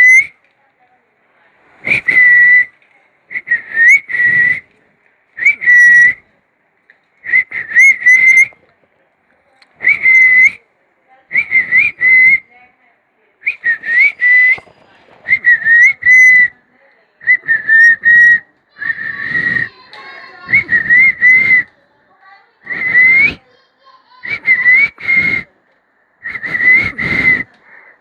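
Baby Indian ringneck parakeet calling over and over: short, wavering, whistle-like calls about one every second and a half.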